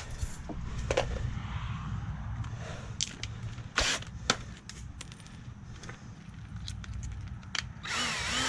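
Scattered sharp knocks and clacks of 2x4 lumber being handled and set against other boards, with a light scrape, over a steady low background rumble.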